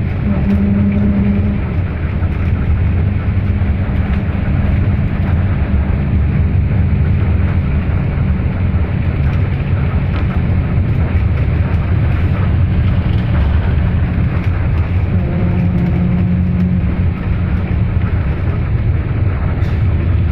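A vehicle travelling: a steady low engine rumble with road and wind noise, and an engine hum that rises and fades now and then.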